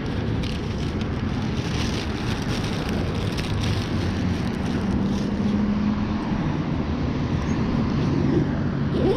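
Steady motor-vehicle rumble and road traffic noise, with a few short clicks and rattles in the first few seconds.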